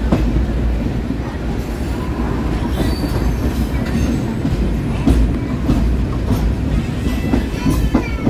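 ICF passenger coach running along the track, heard from on board: a steady heavy rumble, with a sharp wheel clack at a rail joint now and then and a faint wheel squeal near the end.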